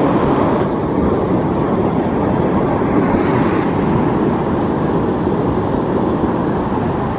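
Steady, loud roar of a waterfall's rushing water.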